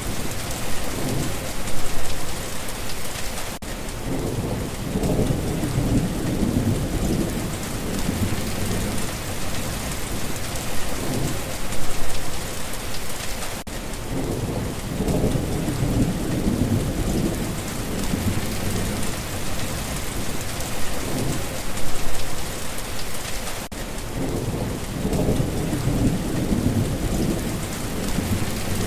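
Steady heavy rain falling, with low rolls of thunder rumbling and fading several times.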